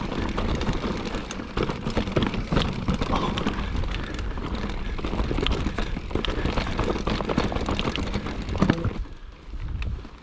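Mountain bike riding over a rocky trail: a dense clatter of knocks and rattles over a low rumble, dropping away sharply about nine seconds in.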